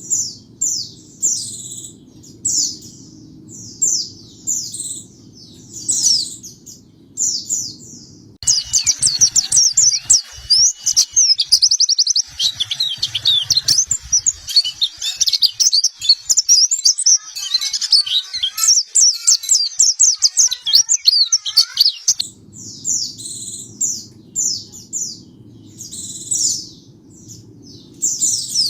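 White-eye (pleci) calls: short high chirps repeated a little faster than once a second over a faint low hum. Then, from about eight seconds in, a loud, fast, continuous warbling song runs for about fourteen seconds before the spaced chirps return.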